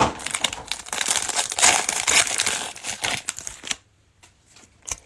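Plastic-foil wrapper of a trading-card pack being torn open and crinkled, dense crackling that stops about four seconds in.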